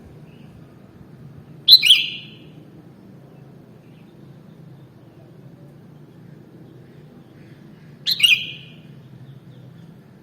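Sooty-headed bulbul (kutilang) giving two short, loud song phrases about six seconds apart, over a faint steady low hum.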